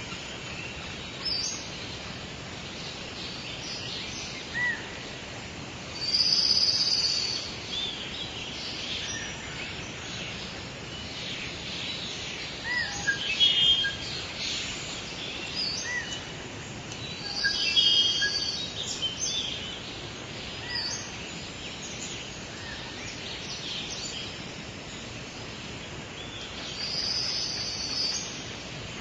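Wild birds calling and chirping over a steady background hiss of outdoor ambience, with one louder call phrase of a second or two coming back about every ten seconds.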